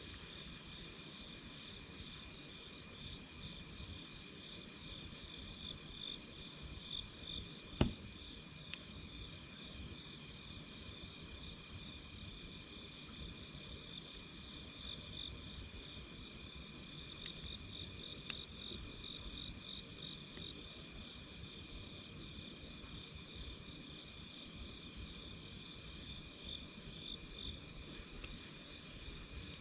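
Insects trilling steadily in a rapid pulsing chirr, with occasional pops from a campfire: one sharp crack about eight seconds in and a few faint ones later.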